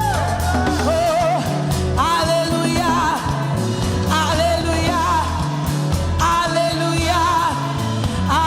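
Live gospel worship music: a vocal melody sung with vibrato over a band with bass, guitar and a steady beat.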